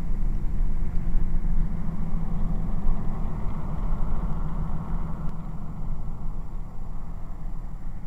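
A motor vehicle running steadily while driving: a low, even engine hum over road noise.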